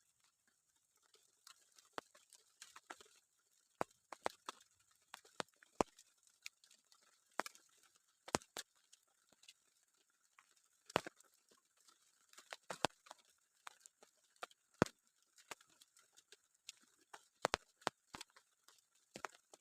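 Scattered drops of rain dripping and tapping irregularly, several a second and some louder than others, over a faint steady hiss.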